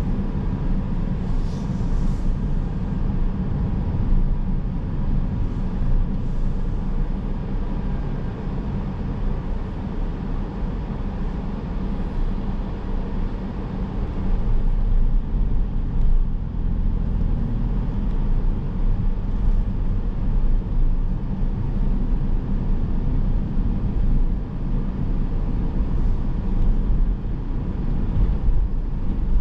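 Car driving on city roads: a steady low rumble of tyre and engine noise.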